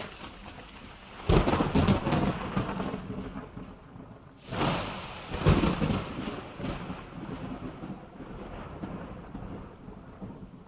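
Rain falling, with two loud rumbling bursts, about a second in and about four and a half seconds in, each dying away over a few seconds.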